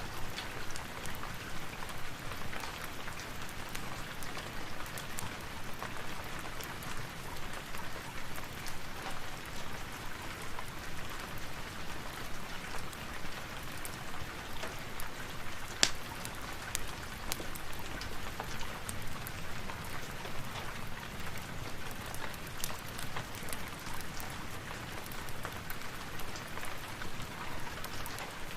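Steady rain falling in an even hiss, with scattered sharp clicks and one louder click about sixteen seconds in.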